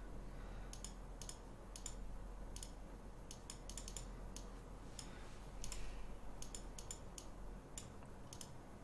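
Quick, irregular clicks on a computer, about two a second, as moves are made in a fast online chess game, over a faint steady low hum.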